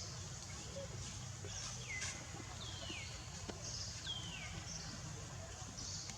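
Three short, high-pitched animal calls, each sliding down in pitch, over a steady low hum and short bursts of high hiss.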